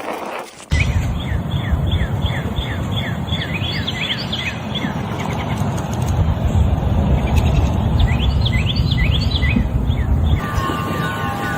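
Small birds chirping, quick repeated high chirps in two runs, over a loud low rumble. Near the end the sound cuts to a few steady ringing tones.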